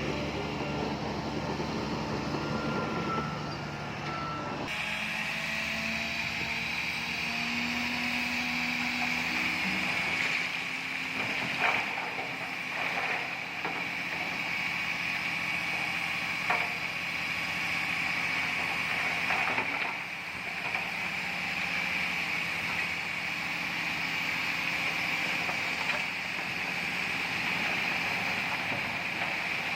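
Heavy earthmoving machinery working: bulldozer and dump truck diesel engines running. A steady high-pitched whine comes in abruptly about five seconds in, and there are a few sharp clanks.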